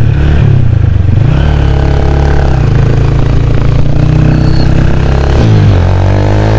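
Lifan KPR motorcycle with a China-made Akrapovic exhaust, heard while riding: the engine runs at a steady pitch, drops briefly near the end and picks up again.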